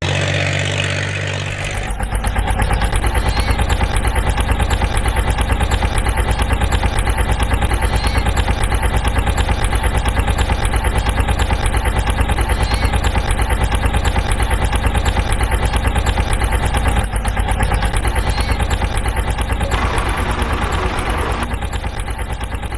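Cartoon vehicle engine sound effect: a low steady hum, then about two seconds in an engine running with a fast, even pulse that carries on.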